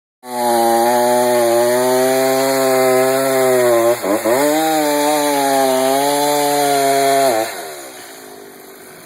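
Chainsaw running at high revs during tree removal, holding a steady high pitch. Its pitch dips sharply and recovers about four seconds in, and the saw cuts off about seven seconds in.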